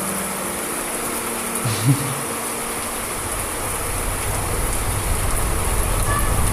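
Steady rain falling, with a low rumble of thunder swelling from about three seconds in.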